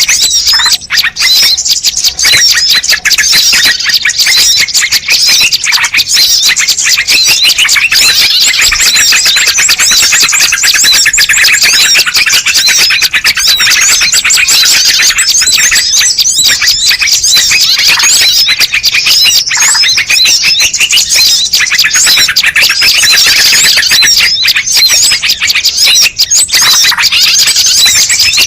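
Bird-lure recording: a dense, loud, unbroken chorus of many small birds chirping and twittering fast, high-pitched calls, played to draw wild birds in.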